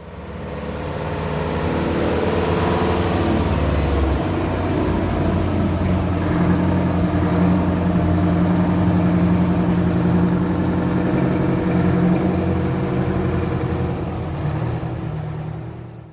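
Detroit Diesel truck engine running and revving, its pitch shifting about four seconds in. The sound fades in at the start and fades out at the end.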